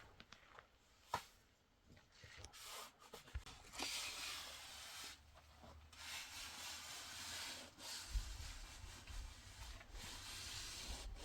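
Irregular rubbing and scraping strokes, each lasting a second or two, with a sharp click about a second in.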